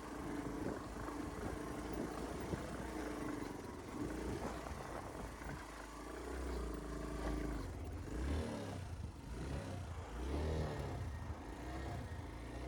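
A vehicle engine running under load, its pitch rising and falling several times in the second half as it revs up and down.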